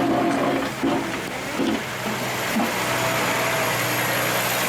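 Snowplow truck's engine running steadily.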